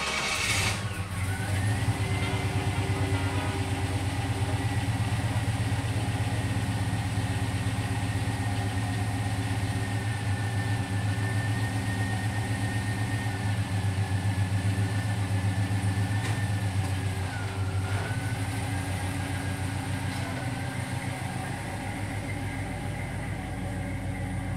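LS1 V8 in a 1971 Chevrolet Nova idling steadily. The idle changes near the end as the car pulls away.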